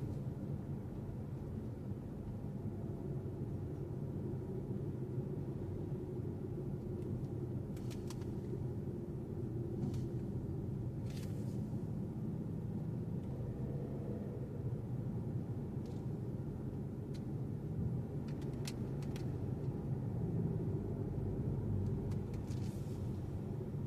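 Steady low rumble of a car driving, road and engine noise heard from inside, with a handful of faint clicks scattered through.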